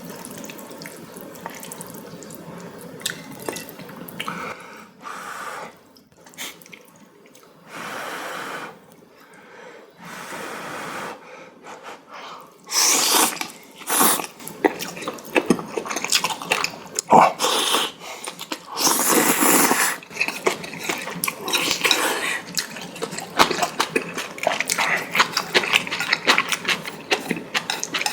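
Person slurping noodles and spicy mala broth, with chewing and small clicks between slurps. The longest, loudest slurps come about halfway through and again about two-thirds of the way in.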